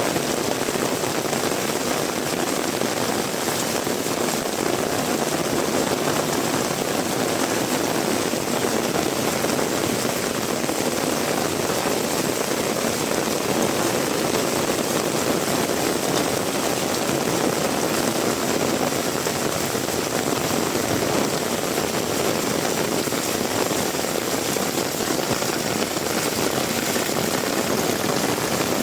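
Heavy rain falling and hitting surfaces, a dense, steady hiss that neither builds nor eases.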